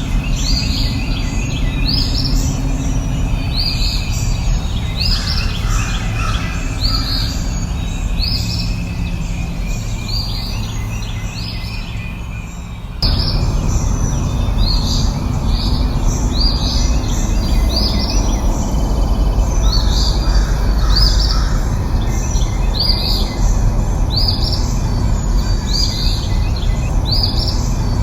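Birdsong: a bird repeats a short, high chirp roughly once a second over a steady low outdoor rumble. The background rumble jumps suddenly louder about halfway through.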